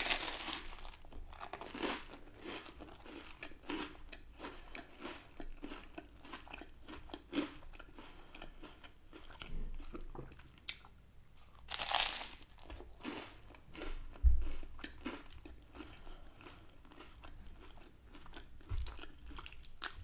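Close-miked crunching bites into toasted garlic bread topped with creamy tagliatelle, with chewing between them. A louder crunch comes right at the start and another about twelve seconds in, and a short dull thump follows a couple of seconds after the second.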